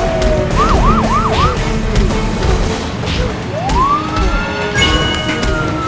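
Emergency vehicle siren: four quick rising-and-falling sweeps soon after the start, then a long slow rise and fall from about the middle, over a steady low rumble.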